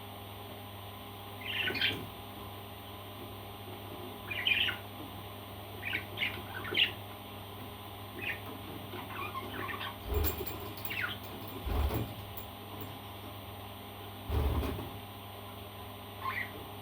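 Parrot giving short, scattered chirps and squawks, several in quick succession around the middle, with a few low dull thumps in between.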